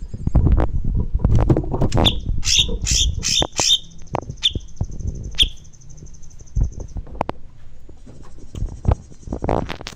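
A songbird calling in a quick run of short, sharp, evenly spaced notes, then holding a high, rapid buzzing trill for about three seconds, among many knocks and rustling noises.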